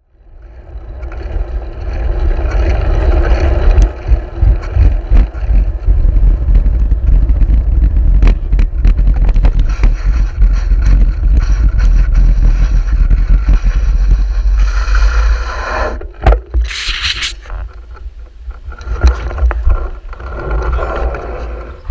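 Wind rumbling on the microphone of a moving bicycle, with the rear wheel rattling and scraping over the road: the rear tyre is punctured and flat, so the rim is riding on the tarmac. A short hiss comes about three-quarters of the way through.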